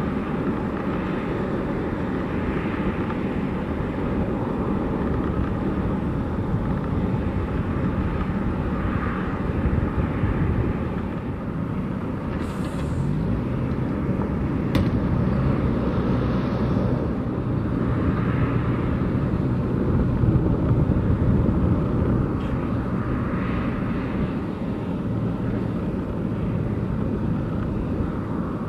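Boeing 757-200's jet engines running on the ramp: a steady rumble, with a low hum that builds about halfway through and eases off near the end.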